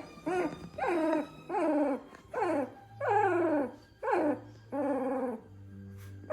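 Two-week-old Labrador puppy crying: about eight short, high whining cries in a row, each falling in pitch.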